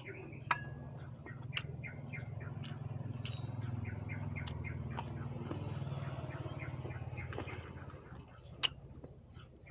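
Sharp crunching clicks from chewing crisp raw green guava, with small birds chirping and a low droning hum that swells and fades out near the end.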